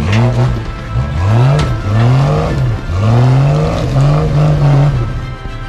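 A vehicle engine revved up and back down about five times, each rev a smooth rise and fall in pitch, with music.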